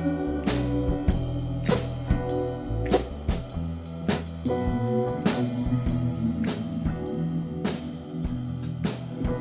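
Instrumental rock-blues band music with no singing: guitar and bass notes over a steady drum beat.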